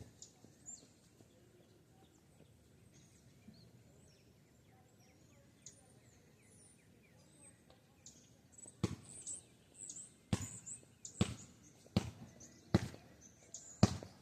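Faint bird chirps, then from about nine seconds in a basketball bouncing on street pavement, six bounces a little under a second apart.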